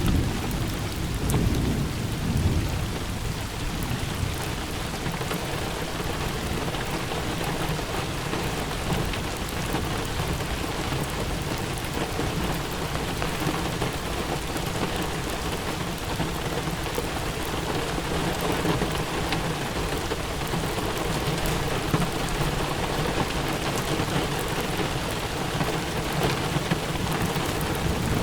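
Steady rain falling with low thunder rumbling under it; a rumble swells about two seconds in.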